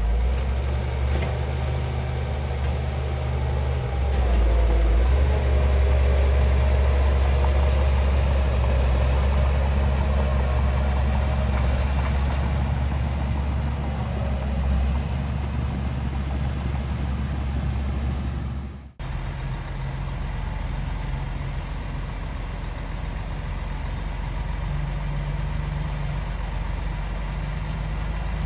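Heavy diesel earthmoving machinery running steadily, getting louder about four seconds in. A little past the middle the sound cuts off abruptly and another steady engine sound takes over.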